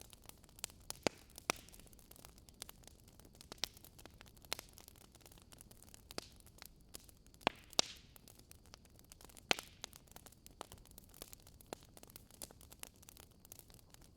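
Wood fire crackling: irregular sharp pops and snaps of burning wood over a faint hiss, with a few louder pops about a second in, near the middle and around nine seconds.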